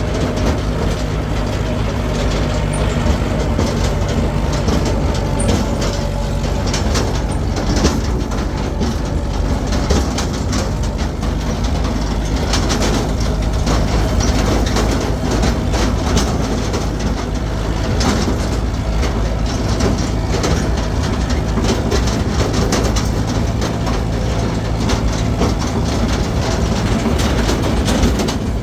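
Steady engine drone with continual rattling and knocking.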